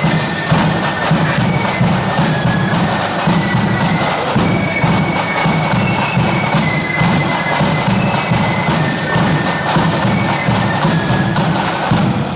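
Marching flute band playing: flutes carry a high melody over a steady bass-drum beat and snare drums.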